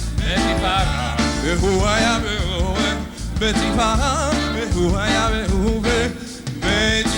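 Band music with a lead vocal singing over bass and drums; the sung notes waver with vibrato.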